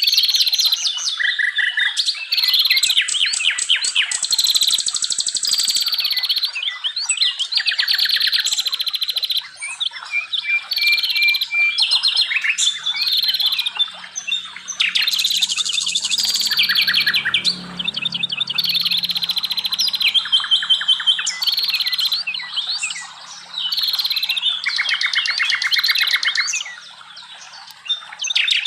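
Several wild songbirds singing over one another in a dense chorus of fast chirps and rapid trilled phrases. The birdsong dips briefly near the end.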